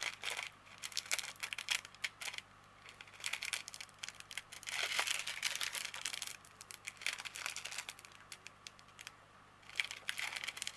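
Small plastic bags of diamond painting drills crinkling as they are picked up and handled, on and off with short pauses, with light clicks among the crackle.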